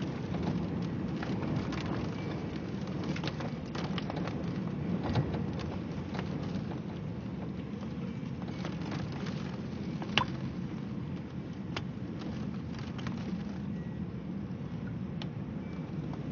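Steady rain, with scattered drops tapping sharply close by over a low, steady rumble. One tap stands out just after 10 seconds in.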